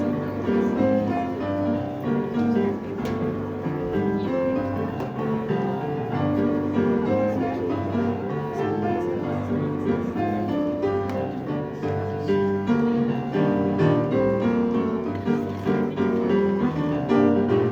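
A piano played continuously, many notes sounding together in a flowing run.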